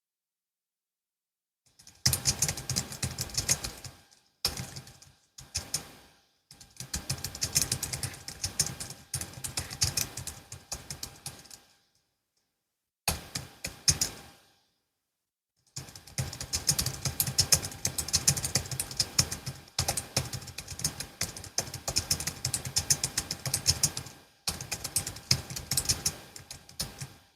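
Typing on a Logitech MX Keys S, a low-profile scissor-switch keyboard: rapid key clicks in runs of several seconds, broken by short pauses of total silence.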